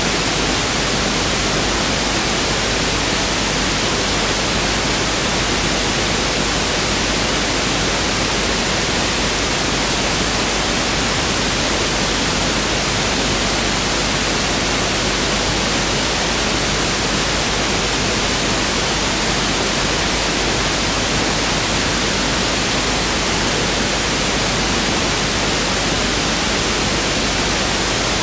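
Pink noise (1/f noise) test signal: a steady, even hiss across all frequencies that does not change.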